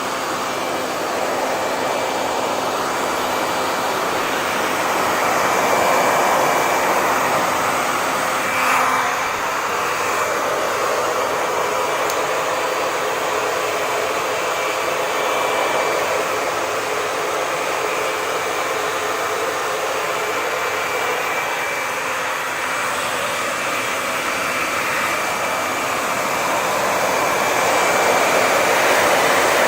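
Hair dryer running continuously: a steady rush of blown air with a faint motor whine, its loudness swelling and easing gently.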